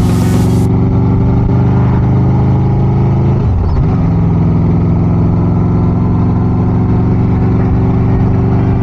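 Motorcycle engine running steadily under way, its pitch dipping sharply and climbing back about three and a half seconds in.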